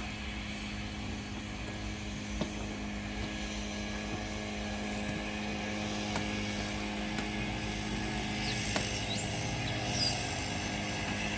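A steady low mechanical drone, like a running engine or a distant aircraft, with a few faint single clicks from handling plastic door-trim pins and clips.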